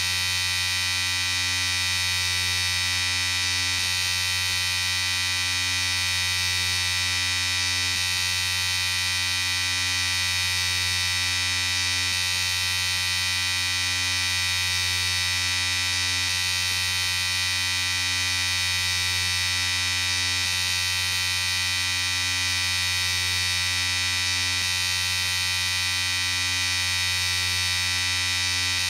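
Electric shaver running with a steady, unbroken buzz.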